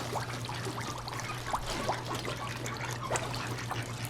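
Water trickling and lapping with many small splashes, over a steady low hum.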